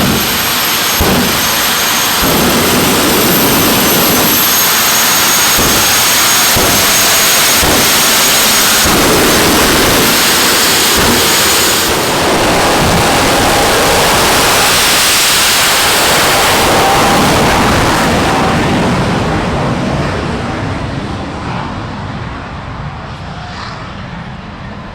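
Jet truck's GE J85 turbojet engines running at high power: a loud, steady rush of jet noise with a high whine on top and occasional low thumps in the first half. The noise dies away over the last several seconds.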